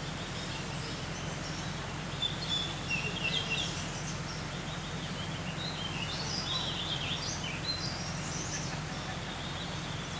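Birds singing in short chirpy phrases, with bursts about two seconds in and again about six seconds in, over the steady rush of a flowing river.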